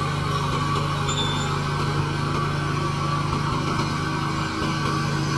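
Engine of a railway track-lifting machine running steadily with an even hum.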